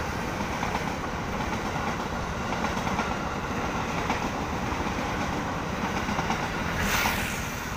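KRL electric commuter train passing close by at speed, its wheels running steadily on the rails with a clatter over the rail joints.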